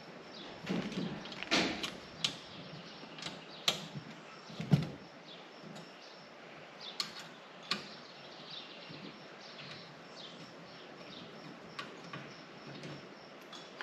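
Scattered clicks and clunks of a metal tool-organizer rack's parts being handled as its bolts are undone, with a few sharper knocks in the first half.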